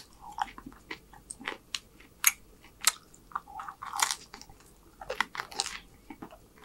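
Close-miked eating: a bite, then chewing with crisp crunches and wet mouth clicks at irregular intervals, a few louder crunches near the middle.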